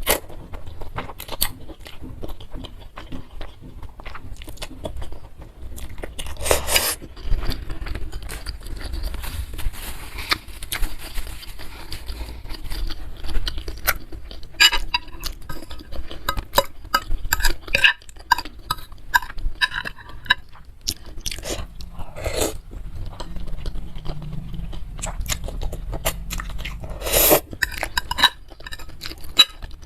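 Close-miked chewing and eating of spicy bakso meatball soup with noodles: many small wet mouth clicks and crunches, with a few louder sharp sounds of utensils or slurping.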